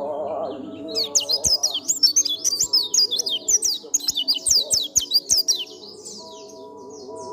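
White-eye (pleci) singing a fast, loud run of high chirping notes, each sliding down in pitch, several a second, for about four and a half seconds. It then tails off into a few softer chirps, over steady background music.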